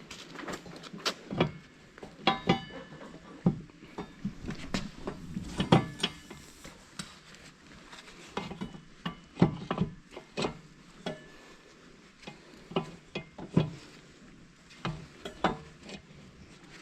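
Irregular metal clanks and knocks, some ringing briefly, from hand tools and steel parts being worked during reassembly of a Geringhoff corn head.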